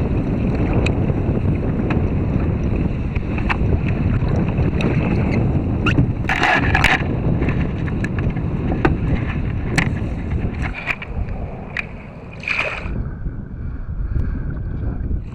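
Wind buffeting the microphone on a kayak on open water, a steady low rumble with water lapping and scattered small knocks and clicks. Two louder bursts of noise stand out, about six seconds in and again near thirteen seconds.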